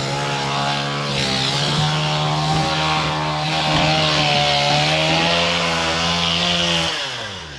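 Chainsaw held at high revs, cutting into a tree trunk, steady for several seconds; near the end the throttle is released and the engine winds down in pitch and fades.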